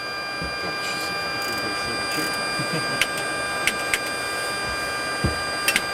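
Il-86 auxiliary power unit (APU) being cold-cranked, spun by its starter without ignition: a steady whine of several high tones over a mechanical hum, building up and then holding. A few sharp clicks about halfway through and near the end.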